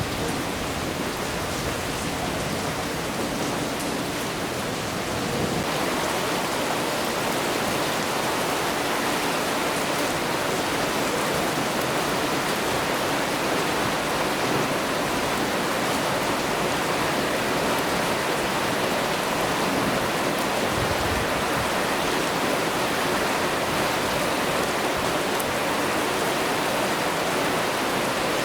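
Steady rain falling, a dense even hiss that gets a little louder about five seconds in.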